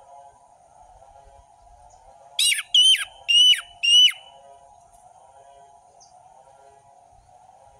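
Orange-headed thrush (anis merah) singing loud, clear 'ngeplong' whistles: a quick run of four notes about two and a half seconds in, each ending in a sharp downward slur. A faint continuous twittering chatter runs underneath.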